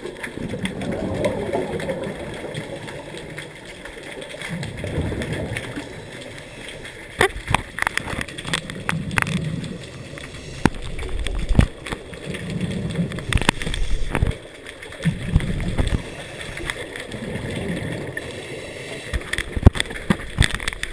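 Underwater sound of a scuba diver breathing through a regulator: exhaled bubbles gurgle out in bursts about every three to four seconds. Sharp clicks are scattered between the breaths.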